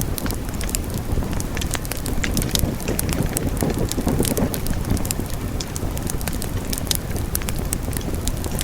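Wood fire burning in a fireplace: a steady low rush of flame with frequent sharp, irregular crackles and pops.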